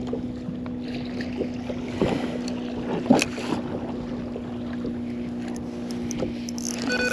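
Kayak on the water with a steady low electric hum throughout and a couple of short knocks or splashes about two and three seconds in.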